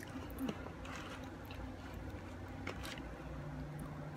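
Quiet eating sounds: a chicken nugget dipped into a small sauce cup and chewed, with a few faint ticks from handling the food. A low steady hum comes in near the end.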